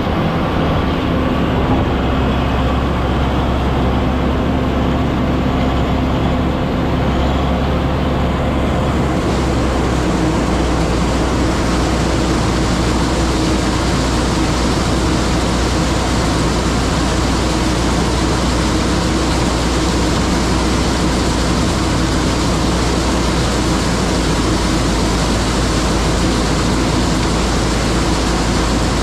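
John Deere 9500 combine running steadily while harvesting corn, a constant low engine hum under mechanical noise. About nine seconds in a brighter hiss joins and stays.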